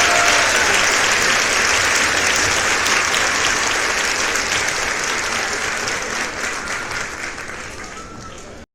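Crowd applause: a dense patter of clapping that fades slowly and cuts off to silence near the end.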